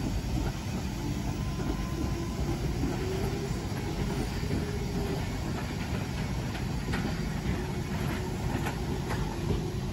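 London Underground train running past on the track: a steady low rumble of wheels and motors with a faint whine, and a few light clicks in the second half.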